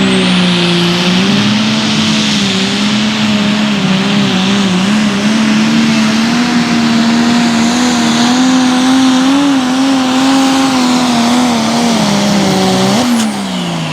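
Turbocharged super stock pulling tractor engine at full throttle under load, with a high turbo whistle over an engine note whose pitch wavers as it pulls. About thirteen seconds in the throttle is cut: the whistle drops away and the engine pitch falls quickly.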